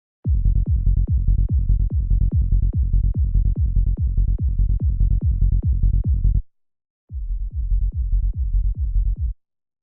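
Psytrance kick drum and rolling bass synth playing a four-on-the-floor pattern, about two and a half kicks a second, dull and bass-heavy with no high end. Playback stops about six seconds in, then starts again quieter a second later and stops shortly before the end.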